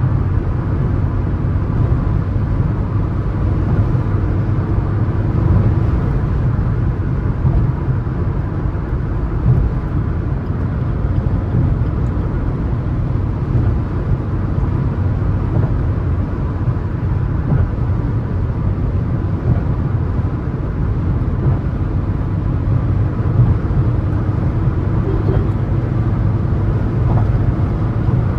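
Suzuki S-Cross 1.3 DDiS diesel car running at highway speed: a steady engine drone mixed with road and tyre noise, with no marked change in pitch or level.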